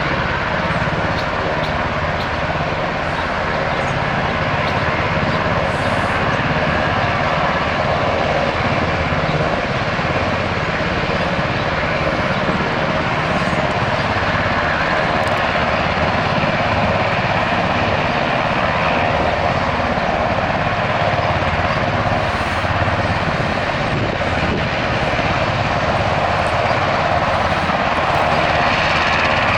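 Military helicopter's turbine engine and rotor running steadily and loudly, with a fast pulsing low chop under a broad whine-and-rush.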